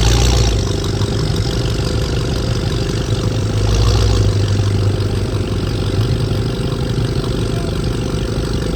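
Car engine idling with a steady low rumble. It swells louder briefly at the start and again about four seconds in.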